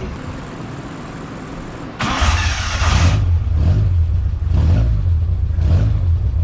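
Datsun Sunny Truck engine starting about two seconds in with a loud burst from the exhaust, then running with a deep, uneven idle that swells briefly a few times.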